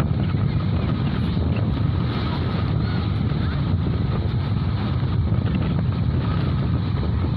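Steady low rumble of wind buffeting the microphone, with surf on the beach behind it.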